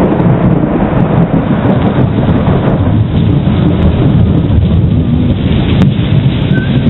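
Thunderstorm: a steady, loud low rumble of wind and rain that holds level throughout.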